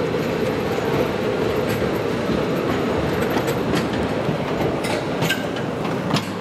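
The Postojna Cave tourist train, heard from on board, rumbling steadily along its track with wheel clatter. A few sharp clicks come in the second half, the loudest about six seconds in.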